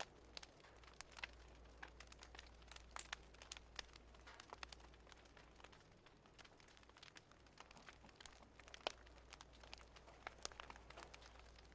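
Faint wood fire crackling, with irregular sharp pops and snaps several times a second over a low steady background.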